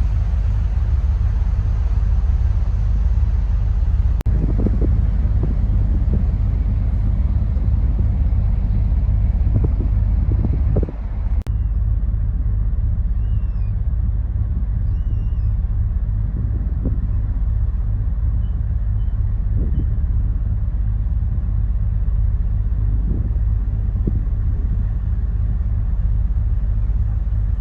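Steady, pulsing low rumble of a river passenger motor ship's diesel engines, heard on board. It dips briefly about eleven seconds in.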